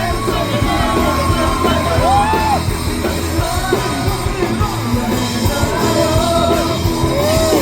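Live rock band playing loudly on drums and amplified instruments, with a singer's voice singing and yelling over it.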